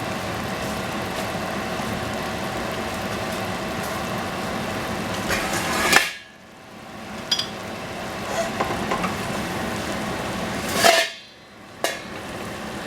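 Eggplant frying in a pan with a steady sizzle, and utensil clatters against the pan. Twice, right after a loud clatter, the sizzle drops away for about a second and then builds back.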